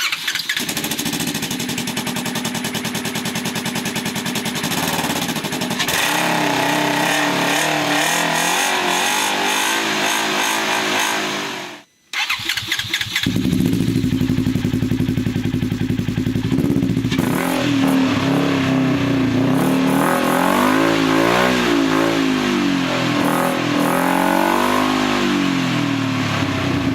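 2015 Polaris RZR 900S's parallel-twin engine idling, then revved up and down several times. After a brief cut, it idles and is revved again a number of times, now through an RJWC slip-on exhaust.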